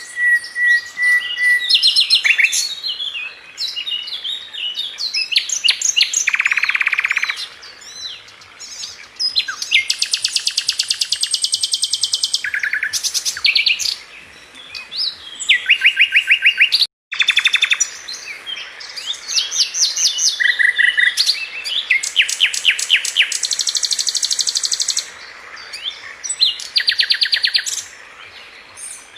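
A sikatan london, a flycatcher kept as a songbird, singing a long, varied song of whistled notes, fast trills and long series of rapidly repeated notes. There is a brief cut in the sound about 17 seconds in.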